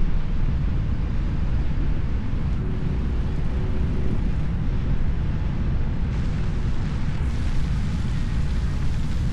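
Steady low wind rumble buffeting the camera's microphone, from riding along on an electric unicycle.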